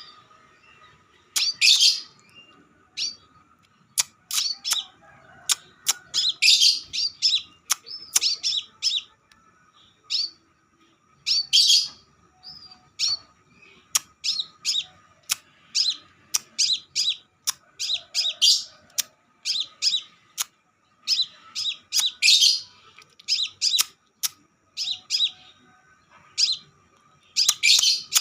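Crimson sunbird singing: quick bursts of high, sharp chirps and short trills, repeated every second or so with short pauses between, over a faint steady hum.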